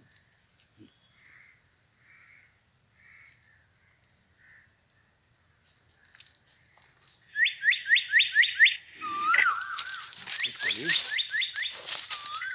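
Birds calling: faint chirps at first, then, about seven seconds in, a loud, fast run of rising chirps repeated about six times a second. Loud rustling and knocking follow and run on to the end.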